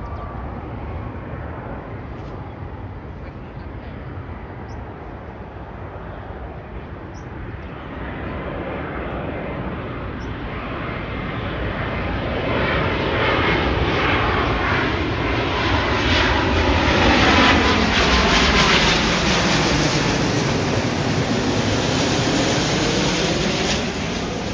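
Jet airliner flying past low, its engine noise swelling from about a third of the way in to a loud peak in the second half, with tones sweeping up and down as it passes.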